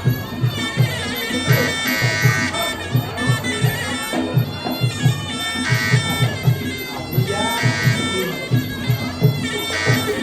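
Sarama, the traditional Muay Thai fight music: a reedy, nasal pi java oboe playing a winding melody over a steady beat of the klong khaek drums. It is the ringside accompaniment to a bout in progress.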